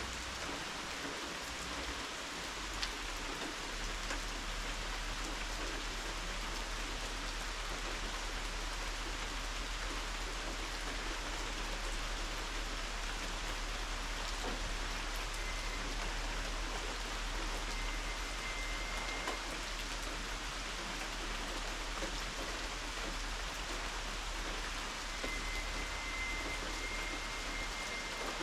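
Steady rain falling, an even hiss with occasional individual drip ticks. A faint thin high tone sounds twice in the second half.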